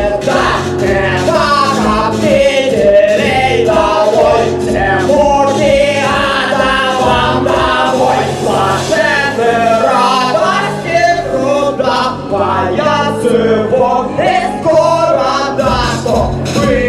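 A song performed live: male voices singing over a steady beat and bass.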